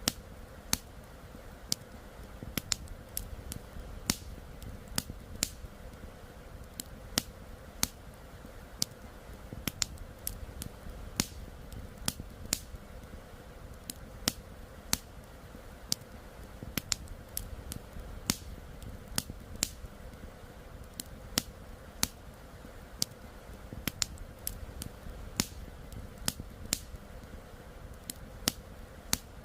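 Wood campfire crackling, with sharp irregular pops about one or two a second over a steady low rush.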